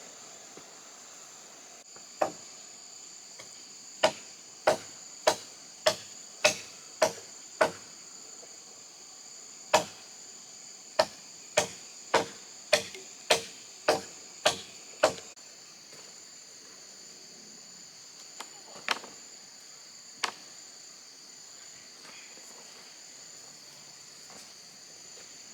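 Blows struck on wood with a hand tool in two quick runs of about seven and eight strokes, a little under two a second, with a few single strokes later. Insects drone steadily and high throughout.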